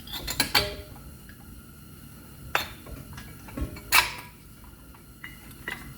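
Sharp metal clinks and clatter as a screwdriver pries a brake pad out of a dual-piston brake caliper: a quick cluster of clicks about half a second in, a single clink midway, the loudest knock about four seconds in, and a few lighter taps near the end.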